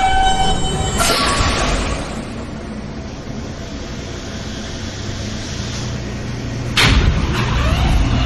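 Interior of a New York City subway car standing at a terminal platform: a steady tone dies away about a second in, then a burst of air hiss, then a steady rumble and hiss. Near the end a sudden loud burst of noise with a trailing hiss.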